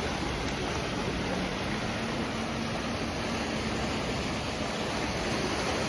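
Steady rush of sea water washing against the shore, with a faint low steady hum underneath.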